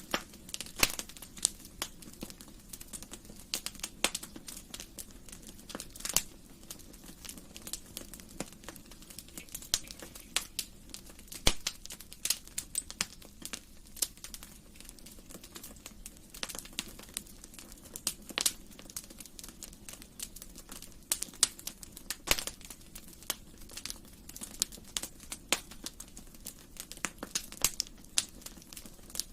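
Wood fire crackling in a fireplace: irregular sharp pops and snaps, some louder than others, over a low steady rush of the burning fire.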